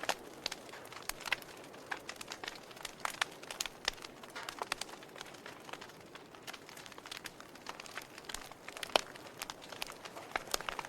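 Logs burning in a fireplace, crackling: irregular sharp pops and snaps over a soft hiss, with one louder pop about nine seconds in.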